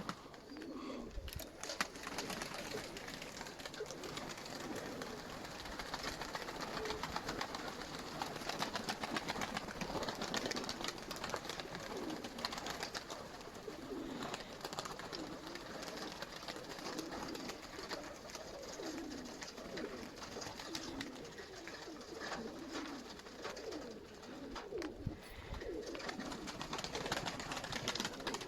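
Several Nikolaev pigeons cooing over and over in low, rolling calls, with many small clicks and rustles among them.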